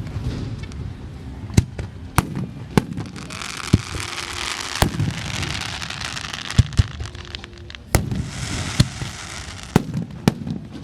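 Aerial fireworks going off: a string of sharp booming bursts, irregularly spaced, with two spells of crackling hiss from crackle shells, one in the middle and one near the end.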